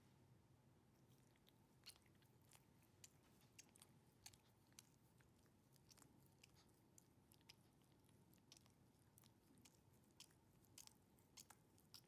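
Chihuahua grooming himself: faint, irregular small wet clicks of licking and nibbling at his fur, several a second.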